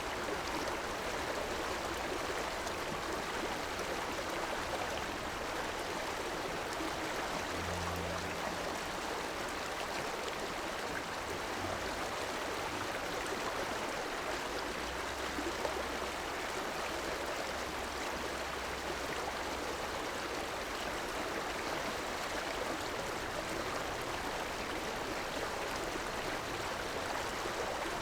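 River water flowing: a steady, even rush of moving water with no change in strength.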